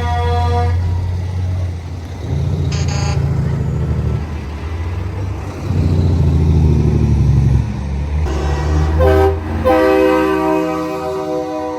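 Trucks sounding their horns over a steady deep engine rumble. One horn cuts off just after the start, a short high toot comes about three seconds in, and two longer horn blasts follow near the end.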